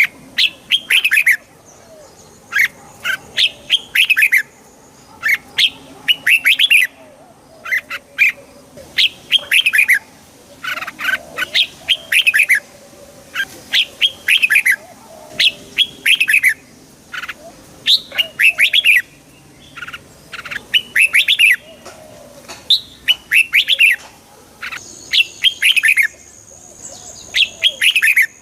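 Red-whiskered bulbul singing: short, loud phrases of quick downward-sliding notes, repeated every second or two.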